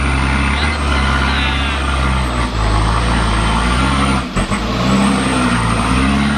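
Truck's diesel engine running hard under throttle as it climbs a steep hill, its note wavering, with a brief drop about four seconds in.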